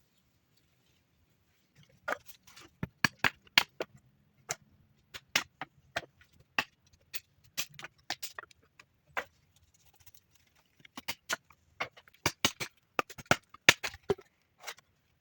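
An irregular series of sharp clicks and knocks in two bursts, one in the first half and one near the end, with a faint low hum under the first.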